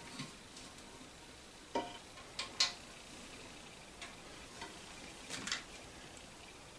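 A few separate light clicks and knocks of plastic toilet-tank parts being handled and fitted while a new fill valve is installed. The loudest pair come about two and a half seconds in, with a few fainter ones around them.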